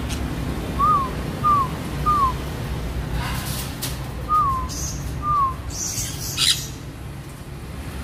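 A caged bird giving short, clear whistled calls, five in all, each sliding up then down: three in quick succession, then two more after a pause. A couple of brief scuffing noises fall in between.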